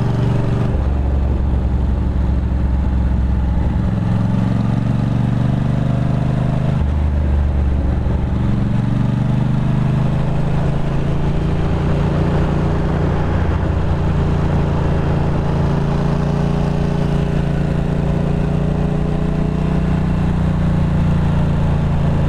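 Ducati Monster 620's air-cooled V-twin engine running steadily as the motorcycle cruises, its note stepping up and down a few times in the first half and then holding even.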